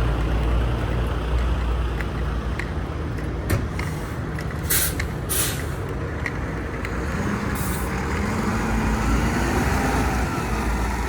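Mack Granite roll-off truck's diesel engine running steadily, with short bursts of air hiss about five seconds in and again near eight seconds, and a few light clicks before them.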